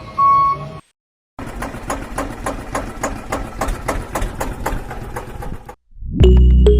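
Small electric motor of a DIY miniature tractor model running steadily, its gearing giving a fast, even clicking of about five ticks a second. Before it, a repeating electronic beep is cut off suddenly.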